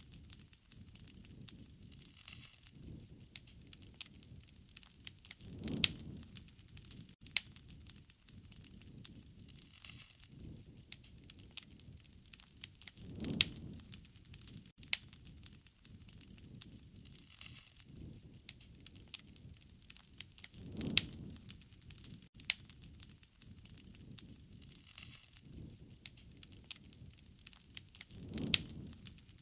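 Wood fire crackling, with frequent sharp snaps and pops over a low steady hiss. A soft low rush swells and fades about every seven and a half seconds.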